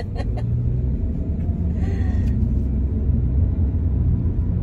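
Steady low rumble of a car on the road, engine and tyre noise heard from inside the cabin.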